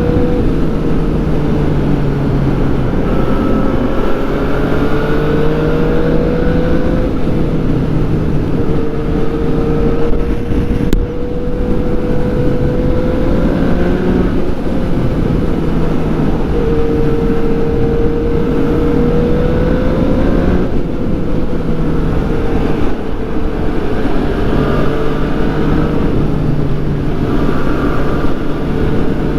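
2014 Yamaha FZ-09's 847 cc inline-three engine running under way, with a strong hum of road and wind noise. Its note creeps up slowly and drops back several times.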